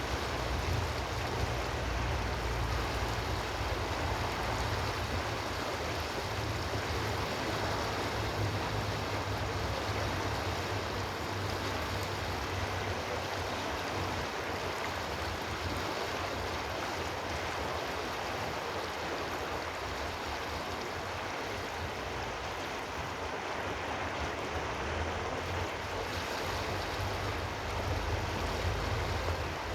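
Running water rushing steadily, with a low rumble underneath that swells and eases.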